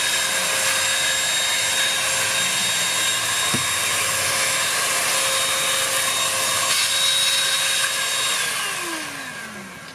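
Dibea C17 cordless handheld car vacuum running with a steady whine and rushing air. Near the end it is switched off, and its motor winds down in pitch as the sound fades.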